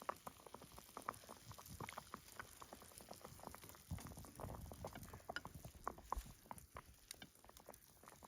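Pot of Shizuoka oden simmering, with faint irregular bubbling and small pops.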